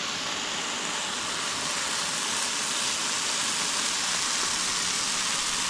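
Bell pepper and onion sizzling on a hot grill: a steady, even hiss.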